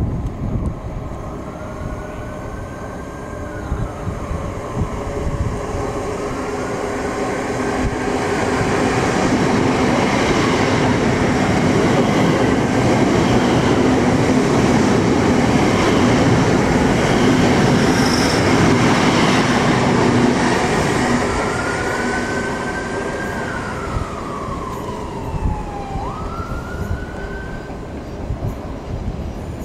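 Class 387 electric multiple units on the line. One runs past close by, a rumble of wheels on rails that builds, stays loud through the middle and fades. Several whining tones glide up and down in pitch near the start and again near the end.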